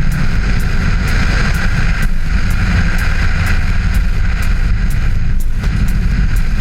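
Audi turbo rally car driving on lake ice, its engine running under a steady heavy rumble picked up by an on-board action camera.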